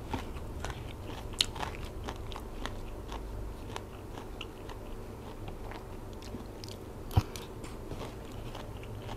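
Close-up eating sounds: chewing and crunching mouthfuls of Isan salad with raw leafy greens. There are scattered small crunches and clicks, with one sharp click about seven seconds in.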